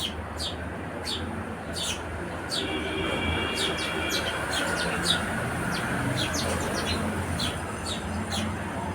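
House sparrows chirping: a busy run of short, quick chirps from several birds, coming irregularly throughout, over a steady low background rumble.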